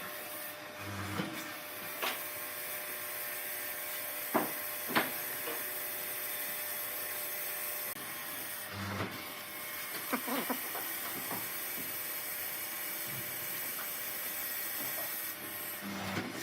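A power tool's small electric motor running with a steady high whine, broken by brief pauses, with a couple of sharp knocks about four and five seconds in.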